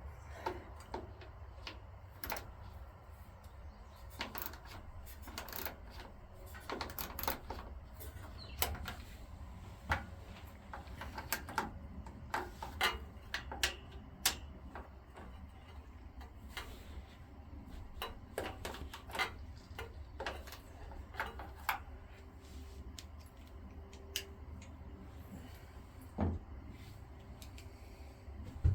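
Hand tools clicking and clinking on the metal of a small Briggs and Stratton engine as bolts are worked loose: irregular sharp clicks, some in quick clusters, with the engine not running.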